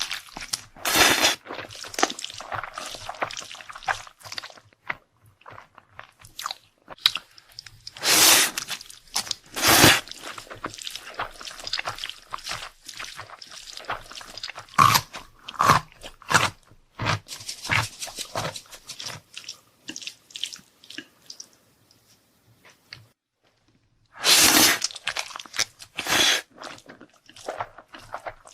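Close-miked eating: irregular chewing, biting and crunching, with several louder bursts a second or so long.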